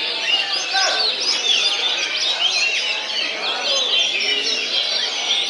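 Many caged songbirds singing at once in competition, a dense overlapping mix of quick whistles, chirps and trills, with people's voices faint underneath.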